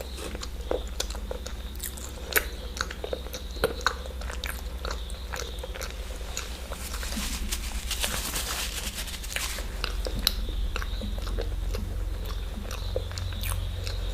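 Close-miked chewing and biting of eggs, with wet mouth clicks and smacks. About seven seconds in there is a couple of seconds of hissy noise, over a steady low hum.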